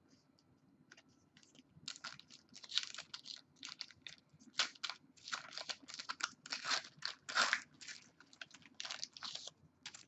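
Trading card pack wrapper being torn open and crinkled by hand: a fast, irregular run of short crackling rustles that starts about two seconds in and stops just before the end.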